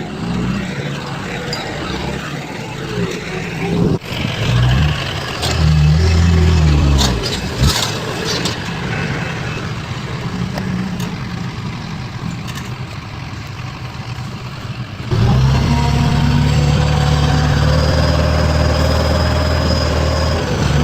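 Heavy construction machinery engines running under load, changing abruptly twice as the footage cuts. There are a few sharp metallic knocks about seven to eight seconds in, and a louder steady engine from about fifteen seconds in.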